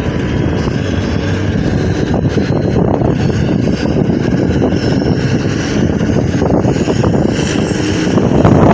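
Farm tractor engine running hard at high revs, as in a tractor-pull run, growing louder near the end.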